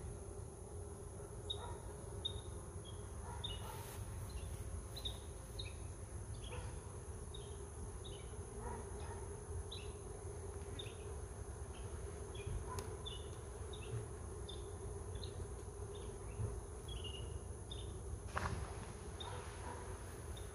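Honeybees humming steadily around an open hive, with short high chirps repeating throughout.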